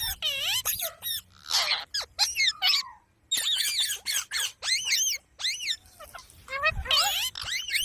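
Parrots calling in a rapid run of short, shrill squawks, many with a warbling up-and-down pitch, pausing briefly a few times.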